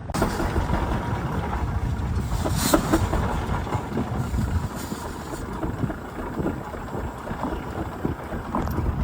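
Garden tractor engine running steadily, a continuous pulsing rumble that starts abruptly.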